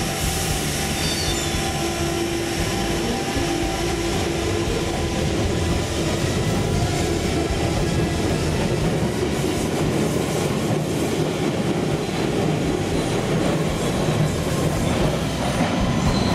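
London Underground tube train running in alongside the platform and slowing to a stop: a steady rumble of wheels on the rails, with a thin whine in the second half.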